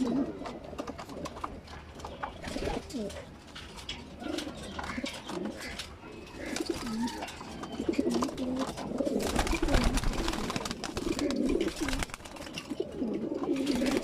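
Several racing pigeons cooing over and over, with repeated low, rising-and-falling coos. A burst of rustling noise comes around nine to ten seconds in.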